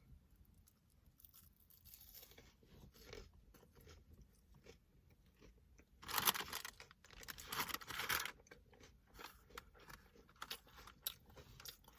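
Close-miked eating: a person chewing and crunching fast food, with small clicks throughout and two louder noisy crunching stretches about six and eight seconds in.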